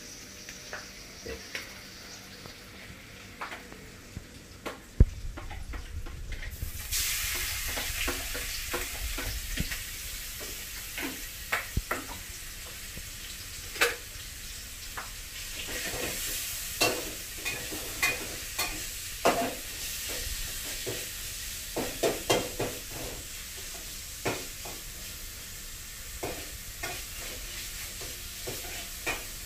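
Steady sizzle of food frying, starting abruptly about seven seconds in over a low rumble, with scattered clicks and knocks of utensils throughout.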